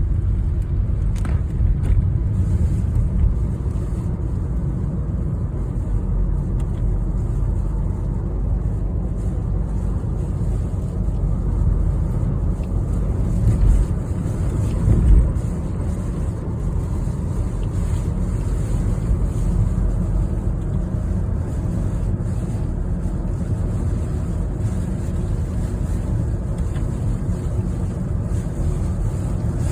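Steady low rumble of a car travelling on a highway in typhoon winds, wind and road noise blended together, with two brief louder swells about halfway through.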